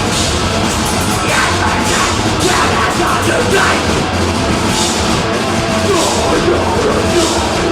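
A deathgrind band playing live at full volume: dense distorted guitars, drums and cymbal wash in a continuous wall of sound, with harsh yelled vocals in places.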